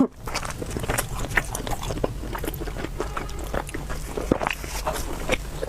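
Close-miked eating sounds: irregular wet mouth clicks and chewing.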